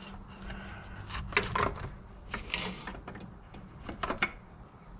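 Metal parts clinking and scraping as a pipe is test-fitted into a new engine water pump: a few short knocks about a second and a half in, again around two and a half seconds, and a pair near four seconds.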